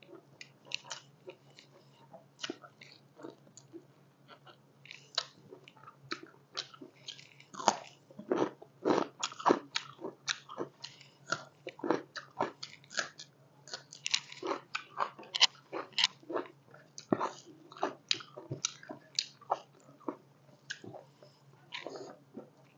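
Close-miked chewing and mouth smacking while pork curry and rice are eaten by hand: a run of short, wet clicks from lips and tongue, densest in the middle of the stretch. A faint steady low hum sits underneath.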